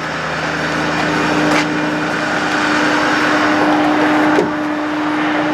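A Ford F-550 bucket truck's engine idling with its PTO engaged, a steady hum with a constant pitched tone, and a couple of faint clicks.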